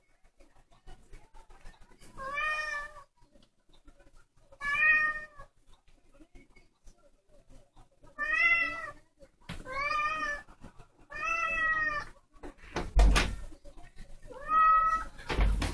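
A young black cat meowing six times, separate calls a second or more apart. Near the end come two loud thumps, the louder of them at the very end.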